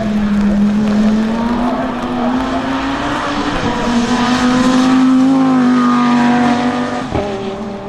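Koenigsegg Jesko's 5.0-litre twin-turbo V8 running loud and steady at a fairly high pitch, rising a little midway, then dropping suddenly about a second before the end.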